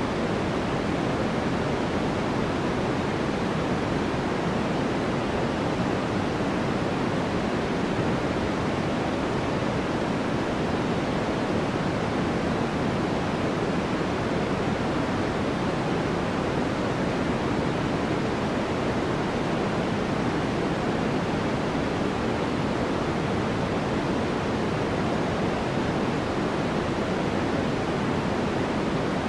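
Steady synthetic white noise for sleep masking, an even, unchanging hiss whose weight sits in the lower and middle pitches.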